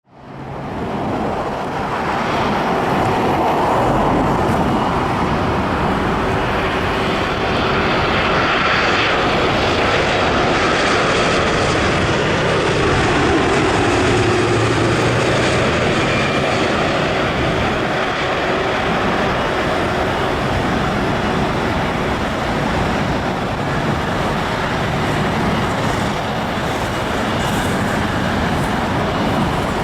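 Jet engines of a Boeing 787-9 airliner on its landing approach, a loud, steady rush of engine noise. Its pitch sweeps down and back up around the middle as the aircraft passes.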